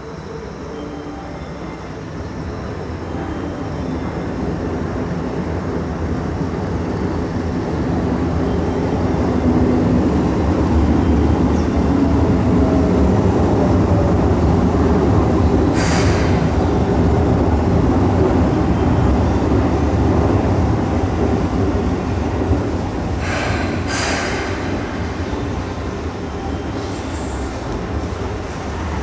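Keihan electric train running at a station platform, its low rumble building up over about ten seconds and then easing off. Short, sharp high-pitched noises cut in about 16 seconds in and again around 23 seconds in.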